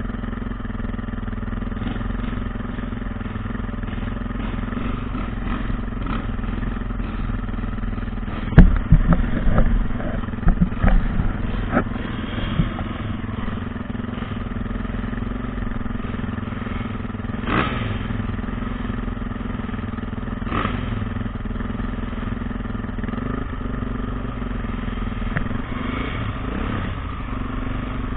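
Dirt bike engine running at a steady speed, with a cluster of loud knocks and thumps about a third of the way through and a couple more later.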